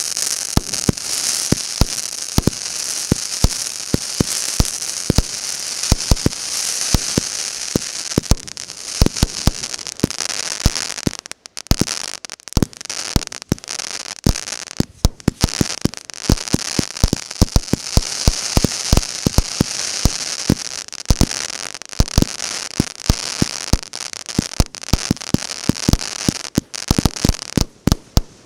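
Megapir Triumph MB65 fireworks battery (cake) firing: a rapid, continuous string of shots and bursts over a steady crackling hiss, with a brief lull about eleven seconds in.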